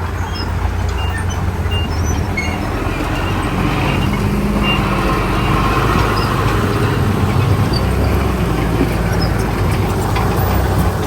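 Heavy diesel engine running steadily, getting louder from about two seconds in as it works.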